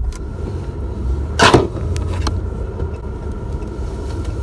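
Steady low road and engine rumble heard inside the cab of a Ram 1500 pickup with a Hemi V8 while driving, with one short, loud burst of noise about a second and a half in.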